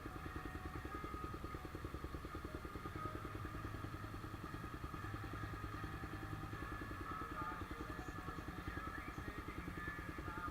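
Single-cylinder Honda CBX 250 Twister running on an open, bare-pipe exhaust while being ridden at a fairly steady speed. It gives a fast, even train of exhaust pulses.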